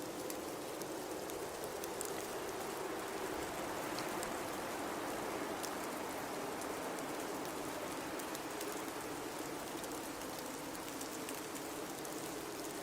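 Blizzard ambience: a steady rush of high wind and blowing snow that swells slightly a few seconds in, with faint scattered ticks over it.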